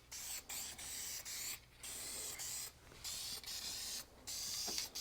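Aerosol spray paint can spraying black paint in about six short bursts of hiss with brief pauses between them.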